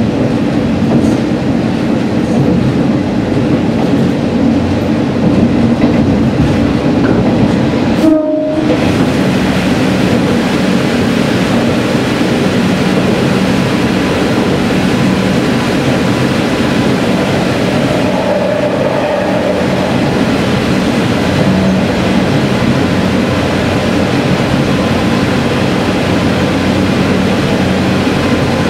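Single-car diesel railcar running on the line, a steady engine drone with wheel-and-rail rumble, heard from the driver's cab as it runs into and through a tunnel. About 8 seconds in, the sound breaks off briefly.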